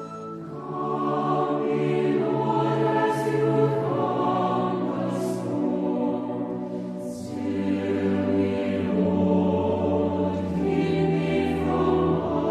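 Slow choral music: voices singing sustained, held chords that change every second or two, with the hiss of sung consonants now and then.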